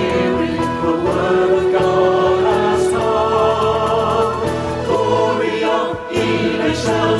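A choir singing long, held notes in a Christmas choral song, the pitches shifting every second or two.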